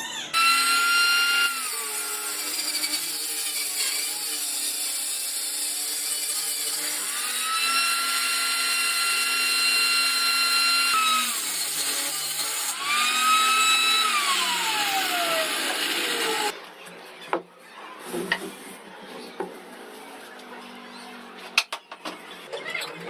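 An electric power tool's motor runs with a high whine that dips and recovers several times as it works the wood, then winds down with a falling pitch about two-thirds of the way through. Lighter clicks and knocks of handling follow.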